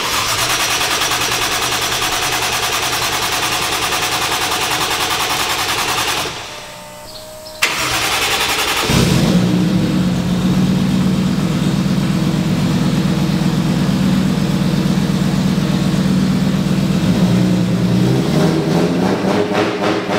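Toyota 1JZ straight-six being started for the first time after its swap into the car: the starter cranks for about six seconds, stops briefly, cranks again, and the engine catches about nine seconds in and settles into a steady running note.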